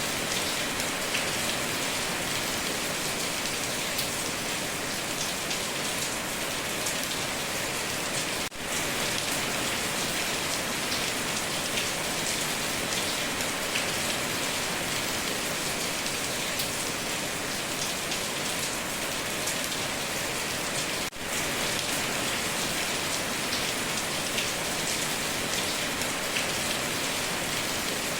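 Heavy rain drumming steadily on a tin roof, a dense hiss of many drops with small individual ticks, dropping out briefly twice.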